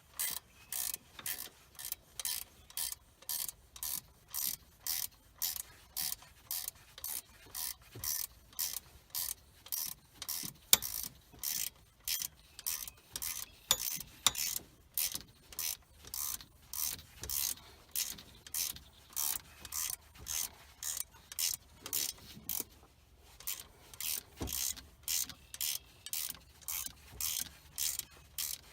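Ratchet wrench working a bolt in short, even strokes of about two a second, each stroke a quick clicking rasp of the pawl, with a brief pause near the end; tightening the mounting bolts while fitting an alternator to a Chevy truck.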